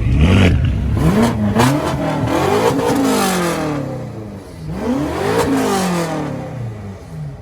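BMW M6 engine being revved: a couple of quick blips, then two longer revs that climb high and fall back.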